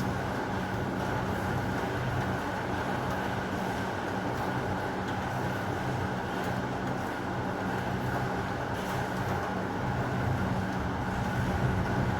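Steady noise of heavy rain with a low, steady hum underneath; no thunderclap.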